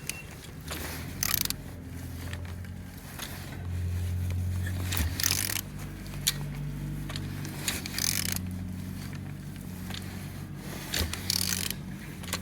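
Engine being turned over by hand at the crankshaft with a wrench to check that it turns and holds compression: mechanical clicks and scraping in several short bursts, over a steady low hum.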